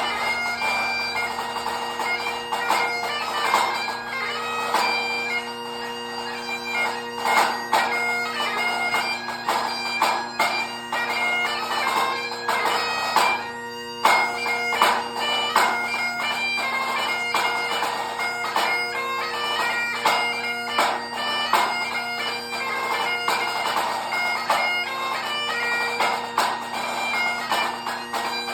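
Highland bagpipe playing a tune, its drones held steady under the changing chanter melody, with a pipe band snare drum playing crisp strokes along with it. The music breaks off briefly about halfway through, then carries on.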